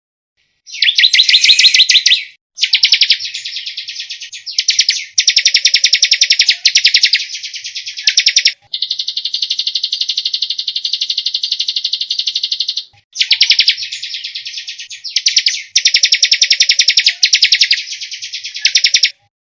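Songbird singing a rapid-fire 'tembakan' song: bursts of dense, very fast trills, each one to three seconds long, with one steady buzzing trill of about four seconds in the middle.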